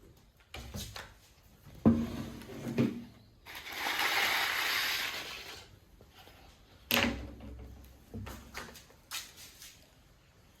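Handling noises as a hedge trimmer is moved and turned over on a bench: scattered knocks and clunks, a sharp one about two seconds in and another about seven seconds in, with a rushing hiss lasting about two seconds in the middle.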